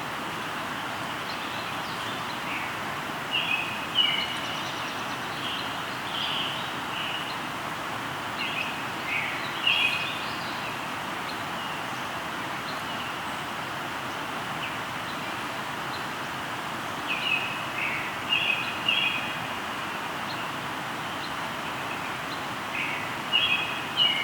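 A river flowing with a steady rush, with birds singing short chirped phrases over it in bursts: a few seconds in, again from about six to ten seconds, around seventeen to nineteen seconds, and near the end.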